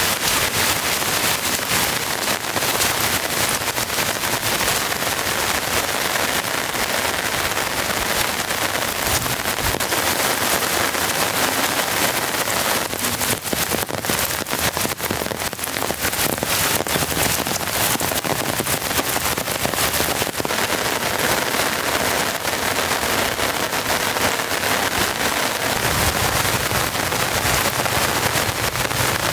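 Heavy rain falling and pattering on a surface, a dense crackle of drops hitting.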